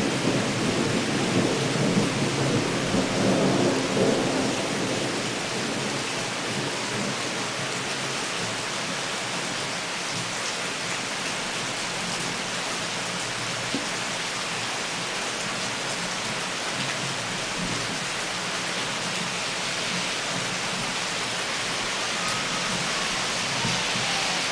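Torrential rain pouring steadily, with a low rumble of thunder in the first few seconds that fades away.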